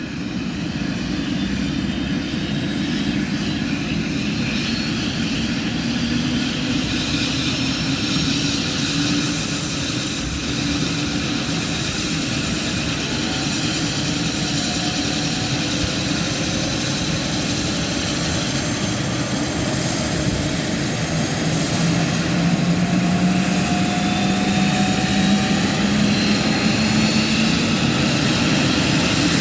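Trauma helicopter's turbine engines and rotor running steadily, with a whining engine tone that drifts slowly in pitch; the sound grows a little louder past two-thirds through.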